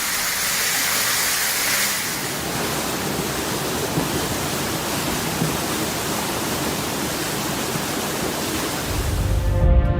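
Steady rush of water, an even dense hiss. Music with a deep bass comes in near the end.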